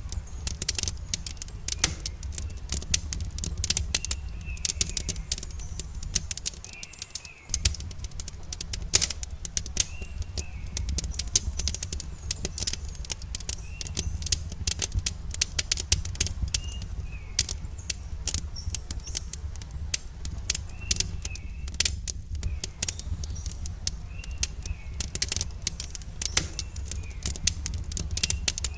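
Campfire crackling, with frequent sharp pops over a low steady rumble of burning wood. A bird chirps short calls every couple of seconds.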